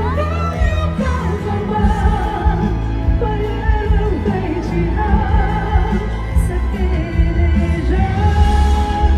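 A live pop ballad: a woman singing over band accompaniment with a steady, heavy bass.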